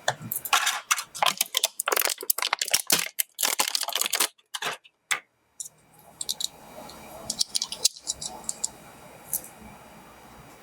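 Hands unpacking and handling a mini air conditioner and its packaging: a quick run of crinkles, clicks and rattles for about five seconds, then, after a brief gap, a few scattered clicks over a low steady hum.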